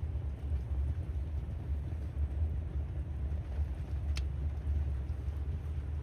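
Wind buffeting the microphone: a steady, gusty low rumble, with one faint click about four seconds in.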